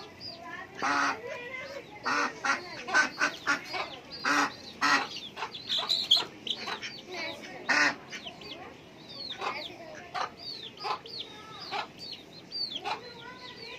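Backyard poultry calling: a run of loud, short honking and quacking calls from ducks or geese, mostly in the first half, mixed with chicken clucks and many short high chirps that carry on throughout.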